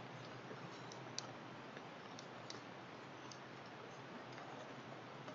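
Rain falling: a faint steady hiss with scattered sharp ticks of drops striking close by, the loudest about a second in.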